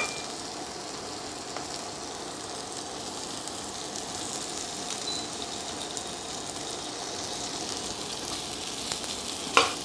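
Sliced char siu sizzling in hot oil in a wok as it is stir-fried: a steady frying hiss with a few faint ticks from the metal spatula.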